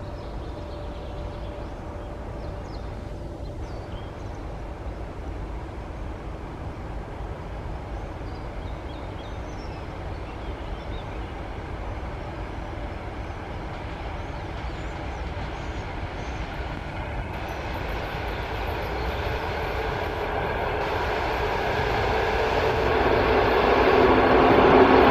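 A train approaching along the railway line, its sound growing steadily louder over the last eight seconds or so and loudest at the very end.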